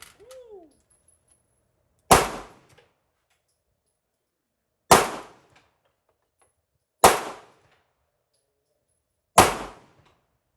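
Four single pistol shots fired at a slow, uneven pace, each a sharp crack with a short ringing tail.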